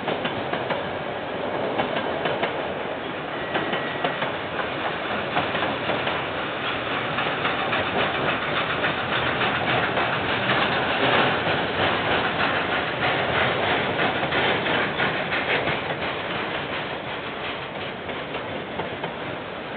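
KiwiRail freight train wagons rolling past, the wheels clicking rapidly over the rail joints under a steady rumble of wheels on track, quieter over the last few seconds. Heard through a security camera's microphone, which cuts off the high end.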